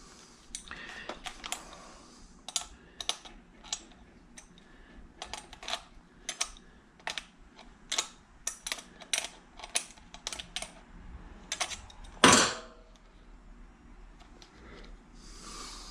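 Small, irregular clicks and taps of a screwdriver and tiny screws and metal pieces being worked by hand, with one louder knock about twelve seconds in.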